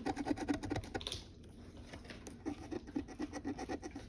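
Scratch-off lottery ticket being scratched, a quick run of short scraping strokes that eases off about a second in and then picks up again.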